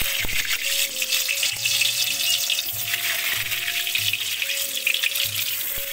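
Stuffed potatoes sizzling as they fry in hot oil in a kadai, a steady crackling hiss, over background music with a regular bass pulse.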